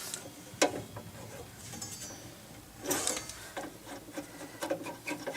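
Small metal parts of a jukebox mechanism being handled: a sharp click, a brief metallic ring, a scraping clatter about three seconds in, then light ticks and taps as pieces are worked loose.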